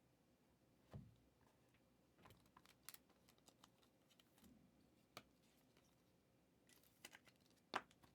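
Near silence, with a few faint, scattered clicks and light rustles.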